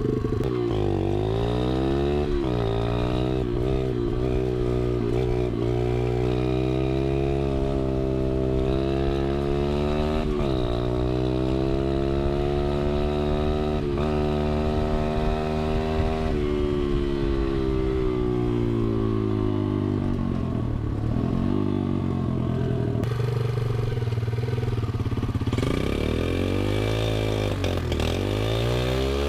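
Rebuilt pit bike engine running and being revved, its pitch rising and falling again and again. It is held high for several seconds in the middle, drops back about two-thirds in, then revs up and down again near the end. The carburettor is not yet tuned.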